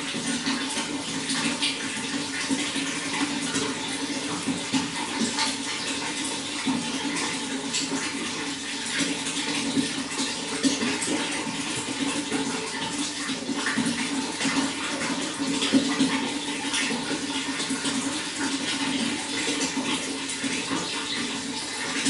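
Running water flowing steadily, with a constant rush and many small splashes and trickles.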